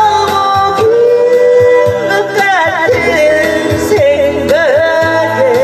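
A singer holding long notes with vibrato over an amplified backing track with bass and drums.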